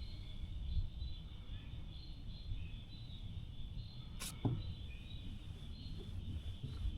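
A fishing cast: a sharp swish of the rod about four seconds in, followed at once by a brief whine falling quickly in pitch as the line pays out. Birds chirp steadily in the background over a low rumble.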